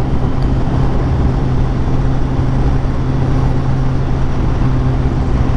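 Honda CBR1000RR SP inline-four engine running at a steady cruising speed, holding one even note, under a constant rush of wind noise.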